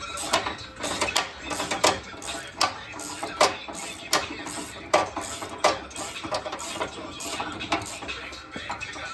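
Metal hand tools clicking and knocking irregularly on a car's underside, with ratchet-like clicks, as bolts are worked during transmission removal.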